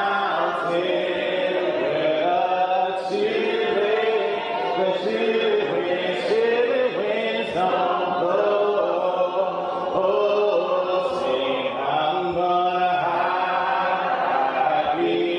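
Church congregation singing a hymn a cappella, many voices in harmony on long held notes.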